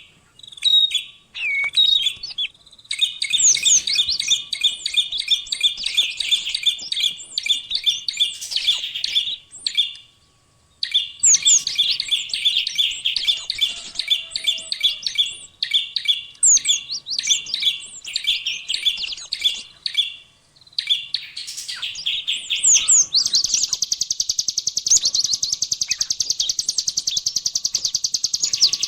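Small songbirds singing: rapid, sharp chattering phrases of repeated high notes, broken by short pauses. About two-thirds of the way in, the song changes to a fast, continuous high buzzing trill.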